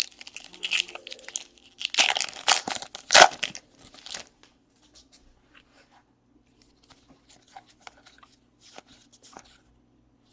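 Paper trading-card pack wrapper being torn open and crinkled, loudest from about two to three and a half seconds in. After that come faint rustles and clicks as the cards are handled.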